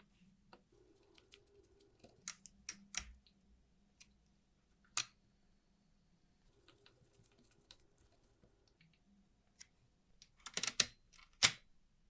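Scattered sharp clicks and taps of small hard parts being handled, with faint scraping between them and a quick run of clicks near the end.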